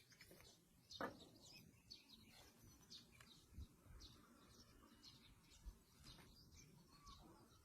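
Near silence with faint, scattered bird chirps, and a single soft click about a second in.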